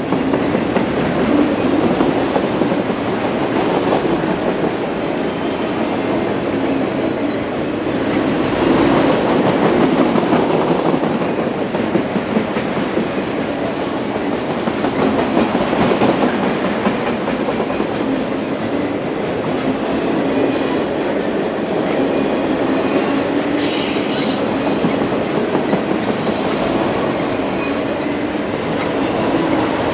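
Empty autorack cars of a freight train rolling past close by: a steady noise of steel wheels on rail with occasional clicks, under a faint steady squeal from the wheels. A brief high hiss cuts in about three quarters of the way through.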